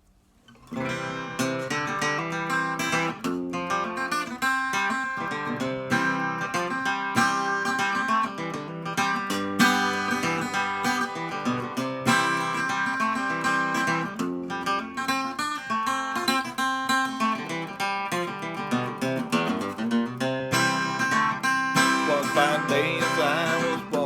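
Acoustic guitar strummed and picked, playing an instrumental introduction before the singing; it starts a little under a second in.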